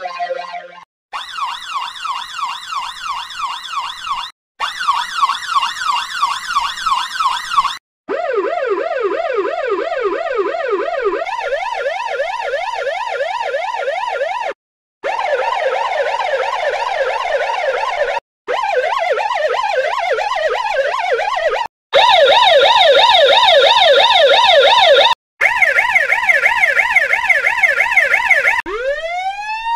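Ambulance siren sound effect, a fast up-and-down yelp, played as about eight short clips in a row with brief gaps between. Each clip is run through a different digital effect, shifted in pitch, reversed or filtered. Near the end a slower siren wail begins to rise.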